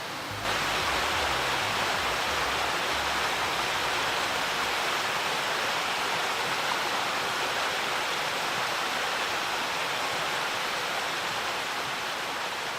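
Mountain stream water rushing steadily, cutting in suddenly about half a second in, with background music fading out in the first few seconds.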